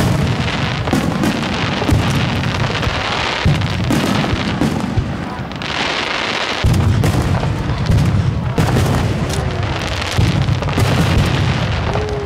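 Aerial fireworks shells bursting one after another in a dense barrage, with booms overlapping into a continuous rumble and crackling from the bursting stars, strongest about six seconds in.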